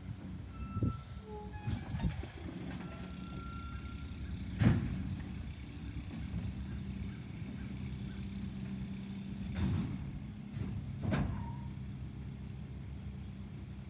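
Garbage truck engine running steadily, with five sharp bangs or knocks over it, the loudest about five seconds in.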